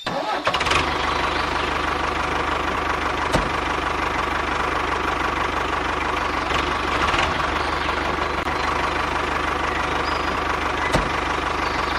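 Small motor and its gearing of a DIY model tractor running steadily, a continuous whirring hum with a fast low pulse and a few faint clicks.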